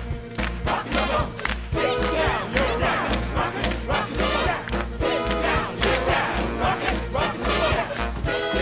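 Theatre pit band playing an upbeat swing dance break with a steady beat, with the ensemble cast shouting and whooping over the music.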